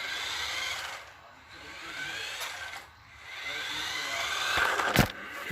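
Small electric motor of a toy RC car whining in repeated bursts as the throttle is pulsed, the pitch rising in each burst. Two sharp knocks come near the end.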